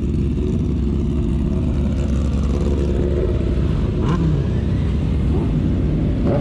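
Motorcycle engine running steadily under a heavy, constant low rumble.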